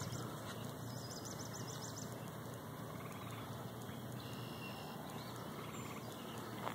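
Evening outdoor ambience: a steady low hiss, with a bird's rapid, high trill about a second in and a few faint high chirps later.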